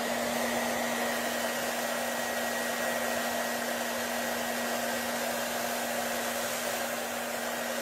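A small motor blower running steadily: an even rush of air with a constant low hum underneath.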